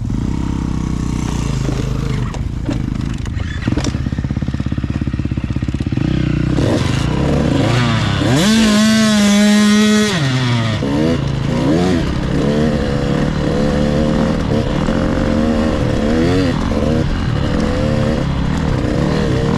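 Husqvarna TC 85 two-stroke dirt bike engine being ridden under varying throttle. It climbs to a high rev held for a second or two about eight seconds in, drops back, then rises and falls over and over.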